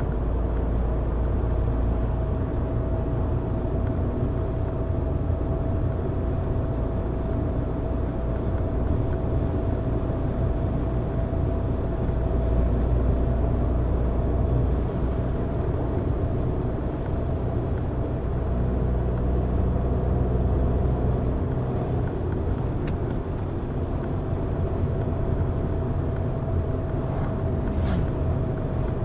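Car driving at steady speed: a continuous rumble of engine and tyres on the road with a faint constant whine, and a couple of faint ticks in the second half.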